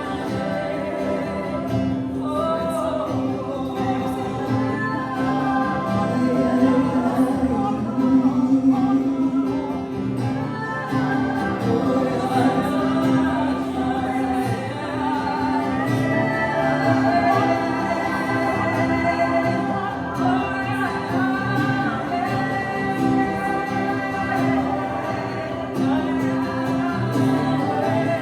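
Congregational worship singing, with many voices singing freely together over sustained instrumental chords.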